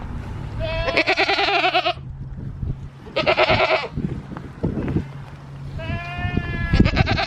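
Dairy goats bleating: three loud, wavering bleats, the last one longest, over a steady low hum, with a few knocks between the second and third.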